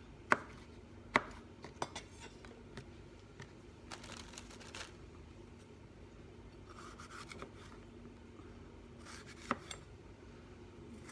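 A capsicum being cut up with a knife and its seeds pulled out. There are a few sharp knocks, the two loudest in the first second or so, with short stretches of scraping and tearing between them.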